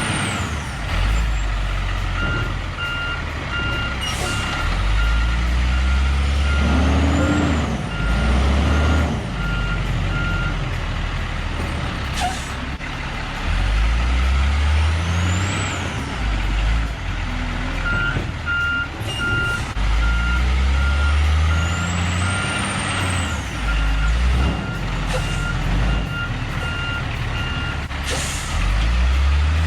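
Heavy diesel truck engine revving in repeated surges under load while a reversing alarm beeps steadily in two long stretches, with a high whine rising and falling now and then: a loaded heavy truck working to drive free of soft, slick mud.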